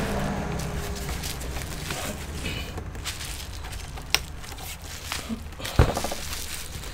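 Handling noise from parts being worked on by hand, with two sharp clicks, the second about two seconds after the first, of the kind made by plastic casing or small parts clicking during disassembly.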